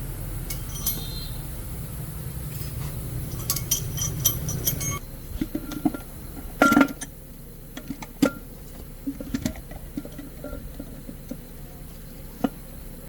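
Metal tools and parts clinking and knocking as they are handled during axle gear repair work. A low machine hum runs under the first clinks and stops about five seconds in, leaving separate sharp clinks and knocks, the loudest a little under two seconds later.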